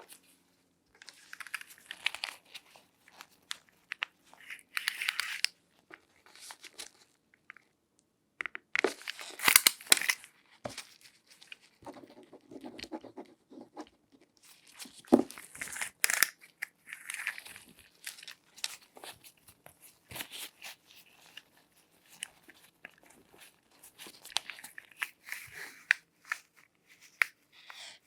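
Close-miked latex-gloved hands handling objects: irregular bursts of crinkly rubbing and scratching, with a few sharp clicks and taps.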